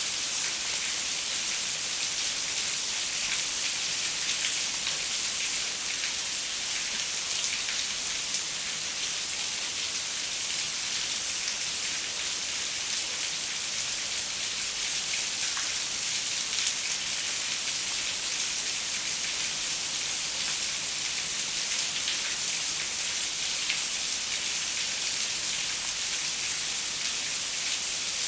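Steady rain falling, a dense even hiss with many small drop ticks, the pattering of rain on a window.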